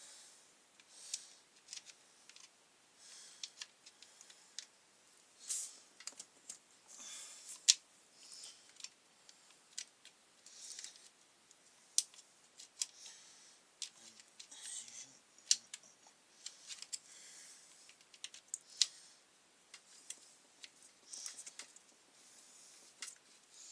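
Scattered clicks and short scrapes of hand tools working on the upturned brush cutter as its last two bolts are undone, with irregular gaps between them.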